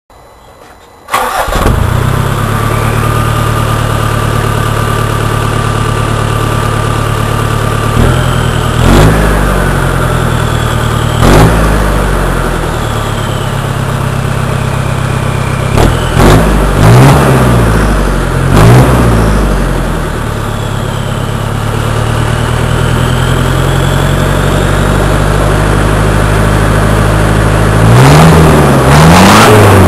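Nissan 2.7 turbo diesel engine with a straight-pipe exhaust, idling and then blipped several times, with a longer rev near the end. The turbo whistle rises and falls with the revs.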